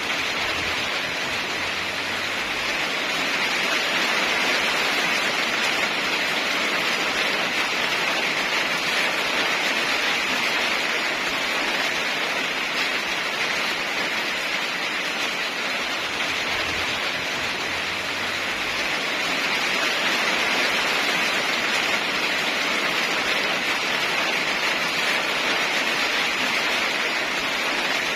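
Steady heavy rain, a continuous even hiss that swells slightly and eases again.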